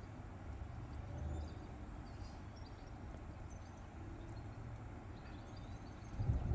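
Thunderstorm ambience: a faint low rumble with a few faint bird chirps, then a roll of thunder starting to build near the end.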